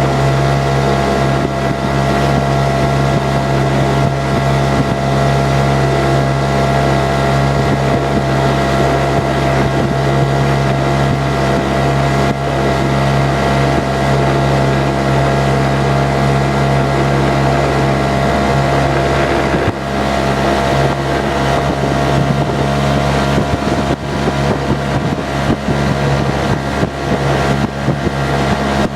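Montgomery Ward 7.5 hp outboard motor, built by Clinton, running at a steady cruising speed with an even drone, mixed with wind buffeting the microphone.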